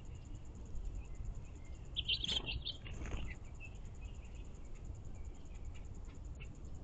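Insects, crickets or similar, chirping steadily in a high, evenly pulsing chorus over a low outdoor background hum. A short burst of bird chirps and chatter comes about two seconds in.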